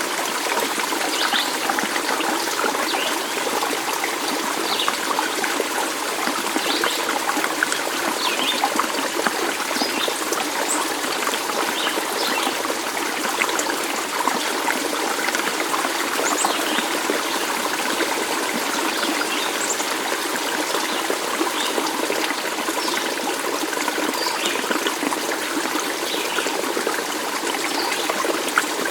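A small stream trickling and running steadily, with short high notes scattered through it.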